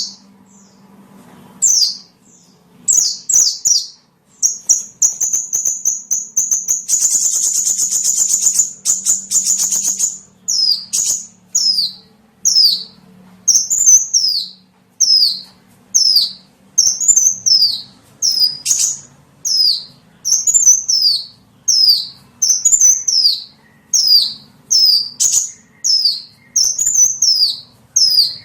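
High-pitched calls of a small songbird, played as a bird-catching lure: quick notes merging into a dense buzzy trill over the first third, then short down-slurred chirps repeated at a little over one a second.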